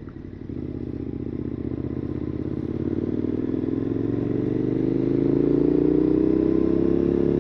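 KTM 1290 Super Adventure S V-twin engine through a Wings titanium exhaust, accelerating. The engine note steps up about half a second in, then rises steadily in pitch and grows louder.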